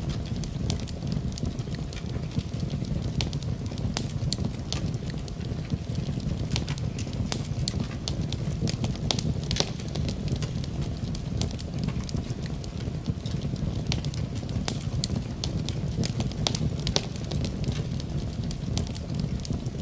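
Wood fire crackling in a fireplace: frequent irregular sharp pops and snaps over a steady low rumble of burning flames.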